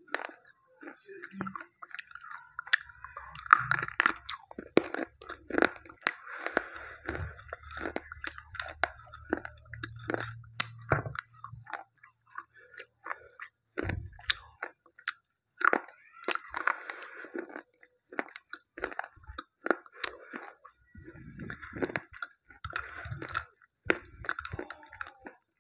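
Slate pencils bitten and chewed right at a wired earphone microphone: sharp, irregular crunches and gritty grinding chews.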